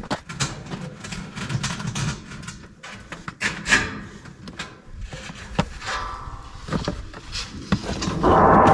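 Hand work on building panels: a run of clicks, knocks and rubbing, with a louder, steadier scraping noise starting near the end.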